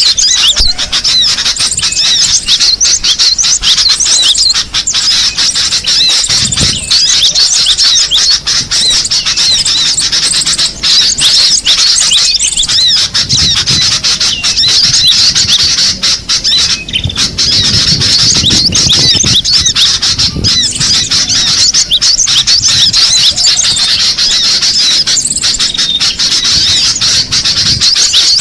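Cinereous tits (gelatik batu) calling and chattering nonstop, a stream of quick, high, overlapping chirps from several birds, with a couple of brief lulls.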